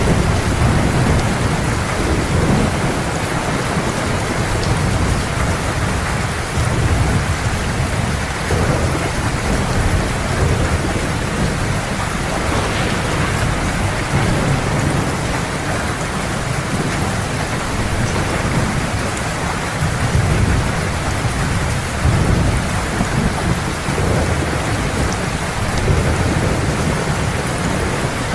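Heavy rain falling steadily, with low thunder rumbling underneath, swelling and fading every few seconds.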